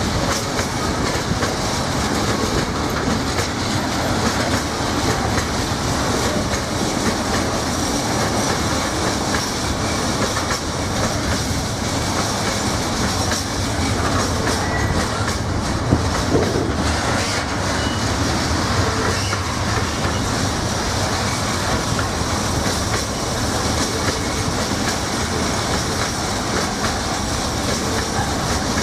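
Loaded container flat wagons of a long freight train rolling past, their wheels clattering steadily over the rails and pointwork, with one slightly louder knock about halfway through.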